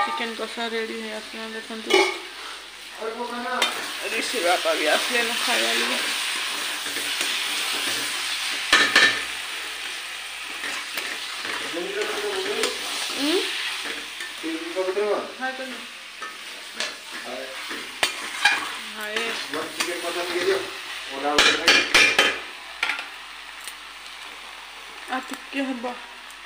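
Chicken pieces in masala sizzling and frying in a metal kadai while being stirred and scraped, with sharp clanks of the stirring utensil against the pan. The clanks are loudest in a quick cluster near the end.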